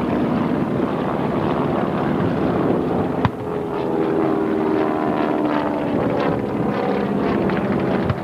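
An engine running steadily, with a single sharp click about three seconds in.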